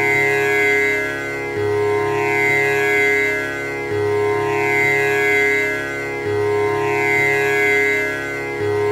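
Tanpura drone: its strings are plucked in a steady repeating cycle, with the deep low string returning about every two and a half seconds. The tones ring on, overlapping, with overtones sweeping high above them.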